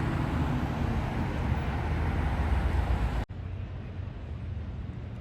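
Traffic noise: a steady low rumble with a hiss over it. It cuts off suddenly about three seconds in, giving way to quieter outdoor background noise.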